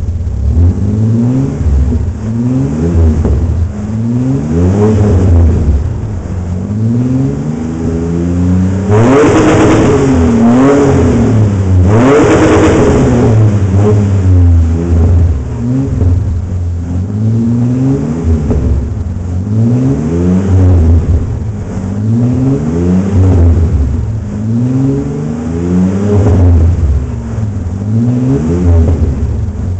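Ford Explorer's 4.0-litre SOHC V6 revved again and again through a custom dual Borla cat-back exhaust. Each blip rises and falls in pitch, about a dozen in all, and two higher, louder revs come near the middle.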